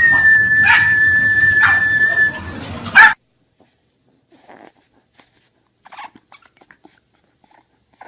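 Several pugs barking over a long, steady high-pitched tone, ending in a loud, sharp sound about three seconds in. After that, only faint, scattered whimpers from an English bulldog puppy.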